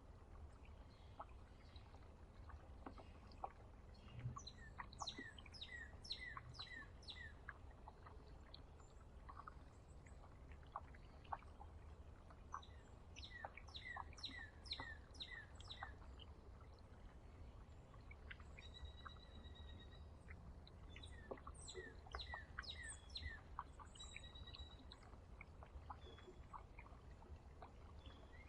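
Songbird singing faintly: three songs of rapid, evenly repeated notes, several seconds apart, with scattered single chirps between them. A low steady rumble runs underneath.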